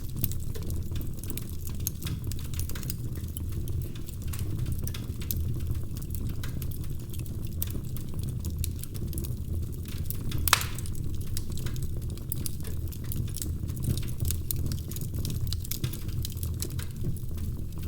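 Wood fire crackling in a fireplace: a steady low rush with frequent small snaps, and one louder pop about ten and a half seconds in.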